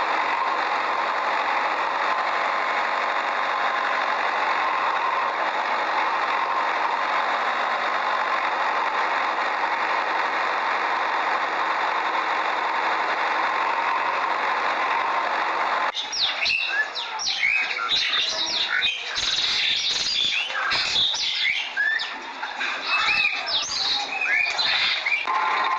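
A small motor running steadily for most of the time. About two-thirds of the way through it cuts off abruptly and many birds are heard chirping in quick, rising and falling calls. The steady running returns just before the end.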